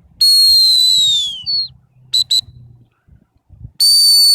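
Dog training whistle blown as commands: a long stop blast that sags in pitch at its end, two short pips, the come-back or 'in' signal, then another long stop blast near the end.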